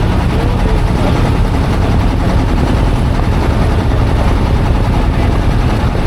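A loud, steady low rumble with no breaks, faint voices behind it.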